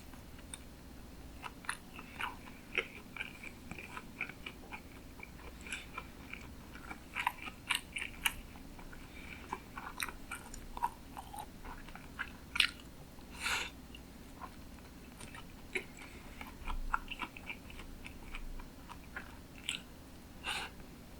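Close-miked chewing of sushi, with irregular soft smacks and mouth clicks as the mouthfuls are chewed.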